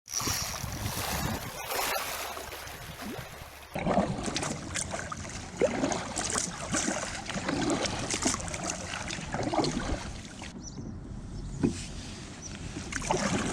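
Sea water splashing and lapping against a kayak, with irregular small splashes; the sound changes abruptly about four seconds in.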